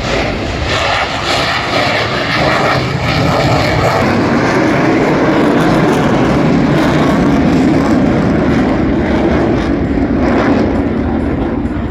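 Military jet aircraft flying past: loud, continuous engine noise that deepens about four seconds in and thins near the end.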